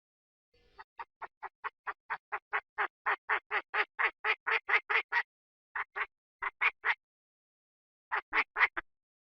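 Chinese francolin calling: a long run of short clucking notes, about four or five a second, growing louder, then short groups of two, three and four notes.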